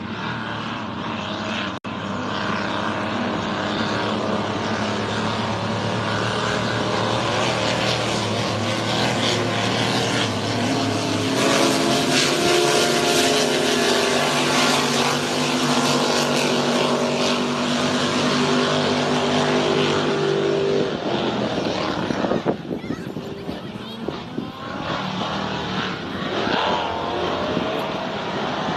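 Racing powerboat engines running hard at high revs, a steady engine note that grows louder toward the middle, fades briefly about three-quarters of the way through, then picks up again.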